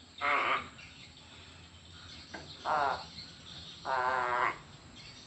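A crow calling three times, short harsh calls, the third one longest with a wavering pitch.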